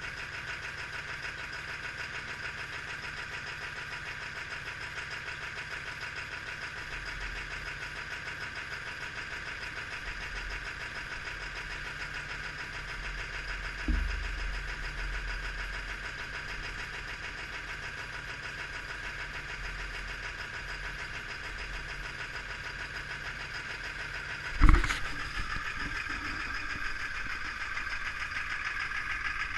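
Ford Power Stroke diesel engine idling steadily with a fast, even clatter after a cold start in about 10°F without the block heater plugged in. A sharp thump comes about halfway through, and a louder one about five seconds before the end.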